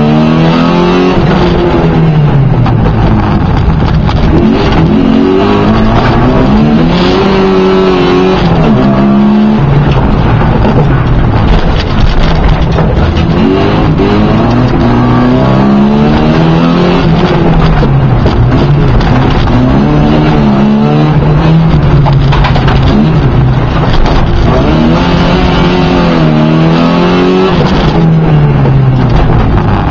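Car engine heard from inside the car, repeatedly revving up and dropping back every few seconds as the car accelerates and slows through a tight slalom of cones and hay bales. Loud throughout.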